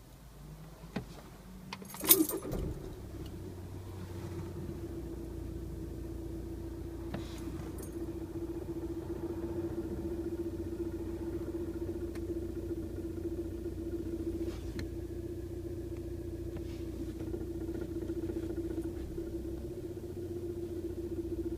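2.0 TDI diesel engine starting with a sharp knock about two seconds in, then idling steadily, with a few faint clicks here and there. The rattle this engine makes when the clutch is worked is the sound under investigation.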